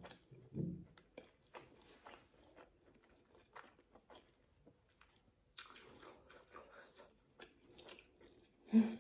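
Close-up chewing of grilled meat: wet mouth clicks and smacks, busier a little past halfway, with a louder, low mouth sound near the end.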